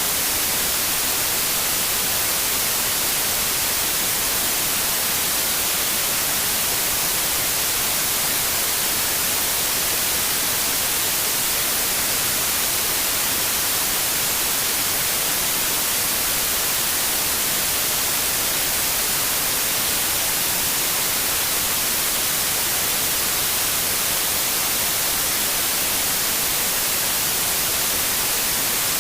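White noise: a steady, even hiss with no change or pattern.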